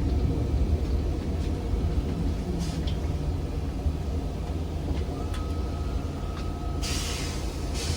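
Ride noise of a ZiU-682G trolleybus: a steady low rumble of the moving vehicle, with a thin steady whine from about five seconds in and a short hiss of released air near the end.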